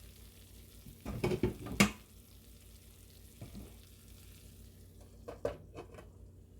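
Metal cookware clattering: a quick run of knocks and scrapes against the pan about a second in, then a few lighter knocks near the end.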